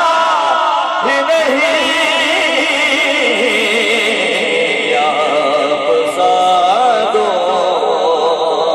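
A man's voice chanting a naat, holding long melismatic notes that waver up and down in pitch, with no clear words.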